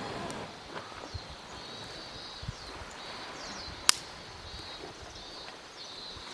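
Faint high bird chirps over quiet outdoor ambience, with one sharp click about four seconds in.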